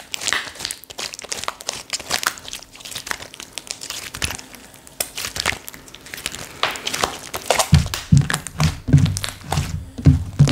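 Slime being squished and poked by hand, giving many quick crackling clicks and pops. From about eight seconds in, soft low thuds join as the slime is pressed down.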